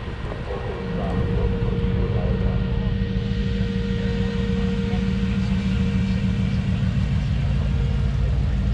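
A steady, low engine drone that comes up about a second in and holds an even pitch, typical of an engine idling close by.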